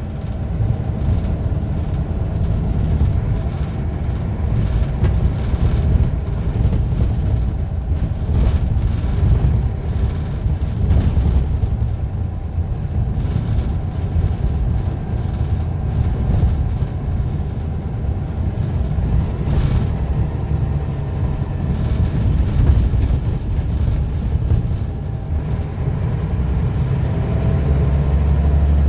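Scania L94UB single-deck bus's nine-litre five-cylinder diesel running, a steady low rumble that grows heavier near the end.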